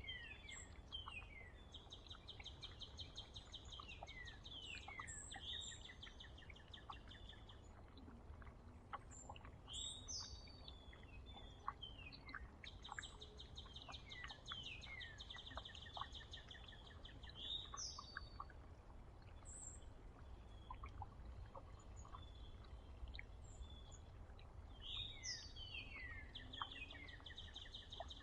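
A small songbird singing the same song over and over, each phrase a few quick downward-slurred whistles followed by a rapid trill on one pitch, with other faint chirps and soft ticks between phrases and a steady low outdoor rumble underneath.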